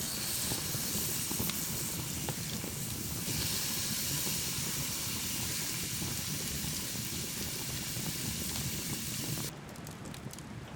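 A steady high hiss that grows stronger about three seconds in and cuts off suddenly near the end, over a continuous low crackly patter.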